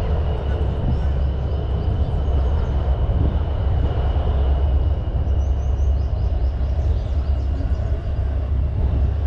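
Train at a station platform making a steady low rumble throughout, with a faint high steady tone above it.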